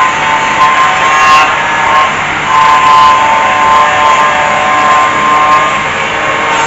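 A motor running steadily with a whine whose pitch wavers slightly.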